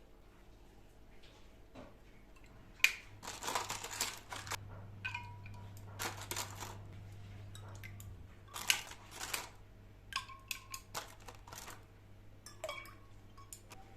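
Household handling sounds: a string of sharp clicks, knocks and short scraping bursts, several with a brief ringing clink like dishes or utensils being set down. A low steady hum runs through the middle few seconds.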